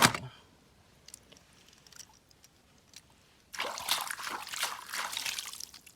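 A sharp knock at the start, then a few faint clicks. About three and a half seconds in, water splashes and trickles for a couple of seconds as a small plastic toy car is rinsed.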